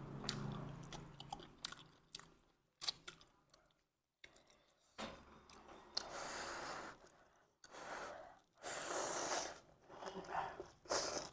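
A person eating close to the microphone: chewing with sharp smacking clicks, broken by several longer hissing mouth sounds of about a second each.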